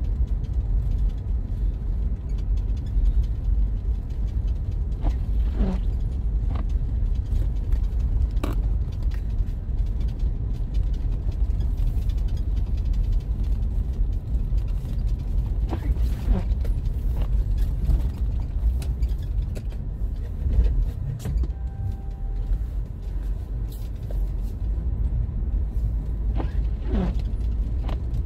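Steady low rumble of a vehicle driving, with a few brief squeaks that fall in pitch, spread through the stretch.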